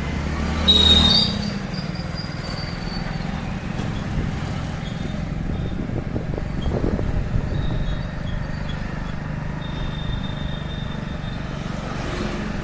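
Steady road, wind and traffic noise from a motorbike riding through city streets. About a second in, a brief loud burst brings a high, thin tone that fades over the next two seconds.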